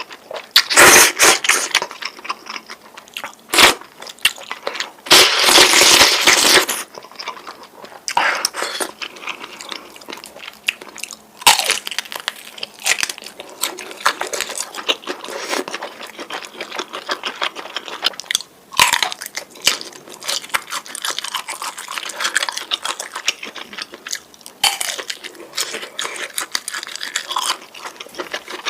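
Close-miked eating of creamy noodles: loud slurps about a second in and again around five seconds in, then steady chewing with wet mouth clicks.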